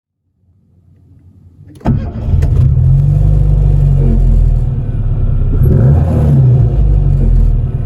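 A 1997 Rover Mini's 1.3-litre A-series four-cylinder engine starting: it catches suddenly about two seconds in, then runs at a fast idle and is revved up and back down once in the middle.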